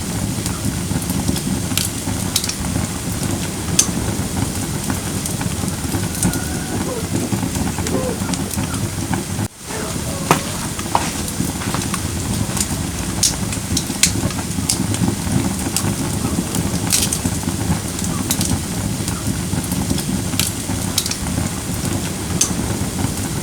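Firewood burning in a fire pit: a steady low rumble of the fire with scattered sharp crackles and pops. The sound drops out for an instant about nine and a half seconds in.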